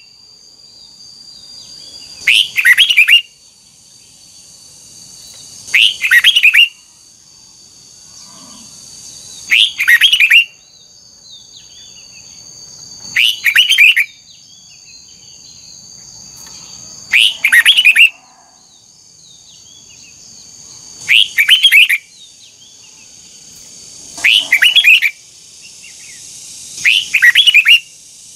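Red-whiskered bulbul singing short, loud song phrases, about one every three to four seconds. A steady high-pitched whine runs between the phrases.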